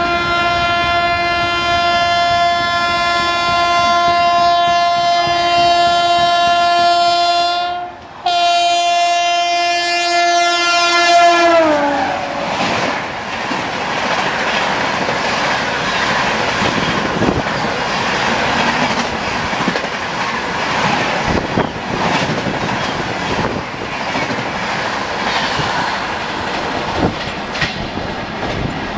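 WAP-7 electric locomotive's horn held in a long, steady blast as the train approaches, with a brief break about eight seconds in. Near twelve seconds the horn drops sharply in pitch as the locomotive passes, and the rush and clickety-clack of its coaches passing at speed follows.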